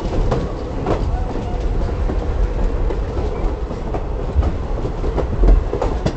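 Railroad cars rolling past close by, their steel wheels clacking over the rail joints over a steady low rumble.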